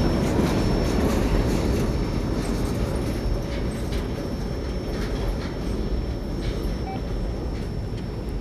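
Portland & Western freight train rumbling away down the line, its wheels clacking faintly over the rails, the sound fading steadily as it recedes.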